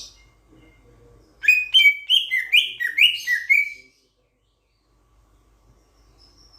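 Raja perling, a starling from Sulawesi, giving a rapid series of about seven loud calls, each sliding downward in pitch. The calls begin about a second and a half in and stop after about two and a half seconds.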